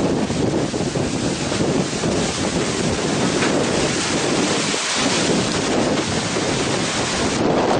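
Strong wind blowing hard across the microphone, a loud steady rush with small fluctuations.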